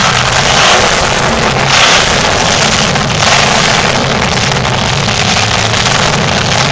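Monster truck engine running loud and continuous, its pitch wavering as the throttle works.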